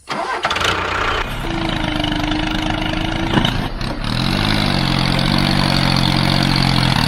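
Mini tractor's small engine running: a steady hum for a couple of seconds, then about four seconds in the engine note rises briefly and settles into a steady running sound.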